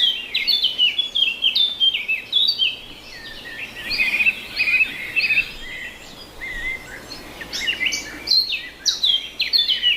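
Several small birds chirping and calling together in quick, overlapping short notes, thinning out a little for a couple of seconds after the middle before picking up again.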